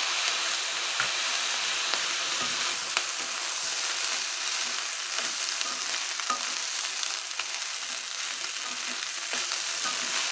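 Chicken fried rice sizzling steadily in a hot wok as it is stir-fried with a wooden spatula, with scattered scrapes and taps of the spatula against the pan.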